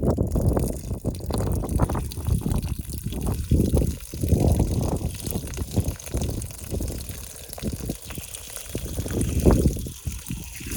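A person urinating outdoors: a hissing stream of urine onto the ground, with wind buffeting the microphone in irregular gusts.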